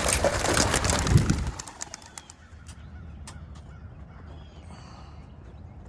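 A flock of racing pigeons taking off from the release crates: a dense clatter of wing flapping and clapping that fades out after about a second and a half. After that a bird calls faintly a few times.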